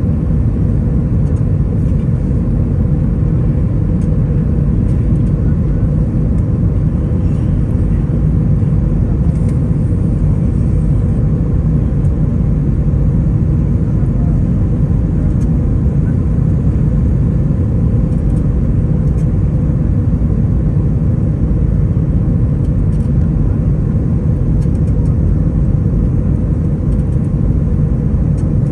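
Airbus A320-200 cabin noise heard from inside the cabin: a loud, steady low rumble of the engines and airflow that holds unchanged throughout.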